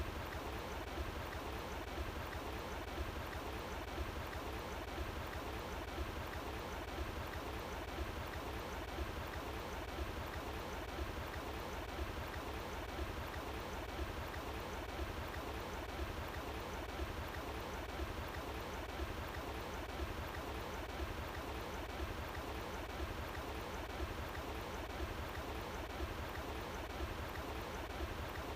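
Running water flowing steadily: an even rushing noise with a low rumble underneath.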